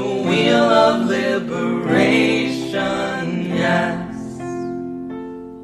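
A song: voices singing over guitar. The singing ends about four seconds in, and a few plucked notes ring on and fade.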